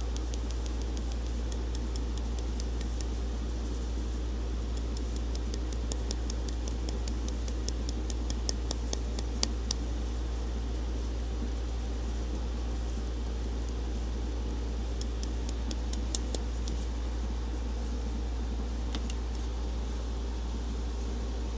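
Steady mechanical hum, like a fan or air-conditioning unit running. Over it come quick runs of light, sharp ticks, thick through the first half and again briefly later on.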